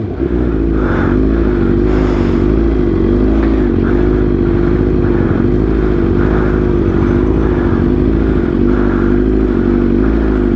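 Motorcycle engine running steadily, its pitch wavering regularly about once a second.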